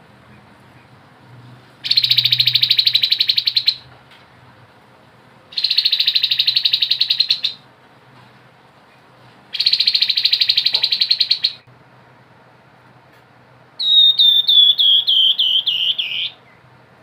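Grey-headed babbler singing: three rapid buzzing trills of about two seconds each, then a quick run of about ten notes falling in pitch near the end.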